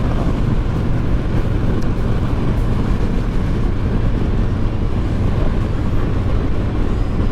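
Honda VTX1300 V-twin engine running at a steady cruise, with wind and road noise over it.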